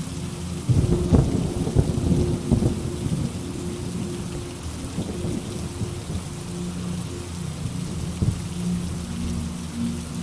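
Steady heavy rain with a crackling rumble of thunder that breaks in about a second in, is loudest for the next two seconds, then fades away.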